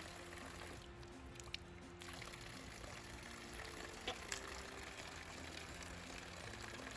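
Faint pouring of water, with a few light clicks.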